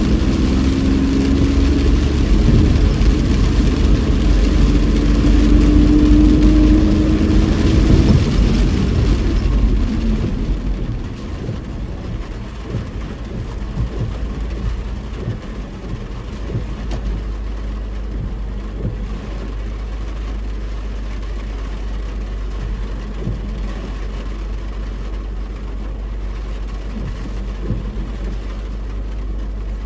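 Car driving in heavy rain, heard from inside the cabin: engine and tyre noise over a steady rush of rain. It is louder for the first ten seconds or so, with a slightly rising engine tone, then drops to a quieter, steadier hum with scattered small ticks.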